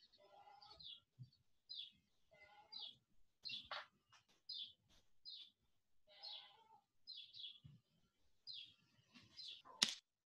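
A songbird chirping faintly in short, high, falling chirps, several in quick runs with gaps between, and a single sharp click near the end.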